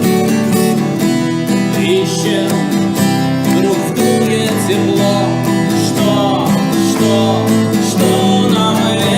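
Acoustic guitar strumming chords in an instrumental passage, with a wavering melody line played over it at times.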